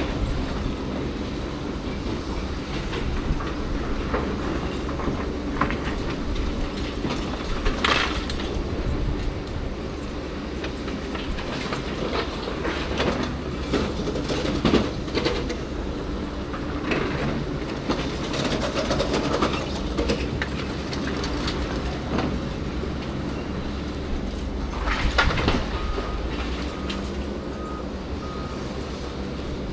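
Heavy diesel machinery running steadily, with irregular metallic clanks and knocks over the engine.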